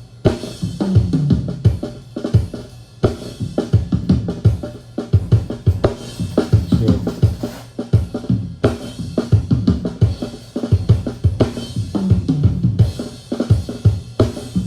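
Recorded drum kit played back from a multitrack mix session, a steady groove of repeated kick and snare hits.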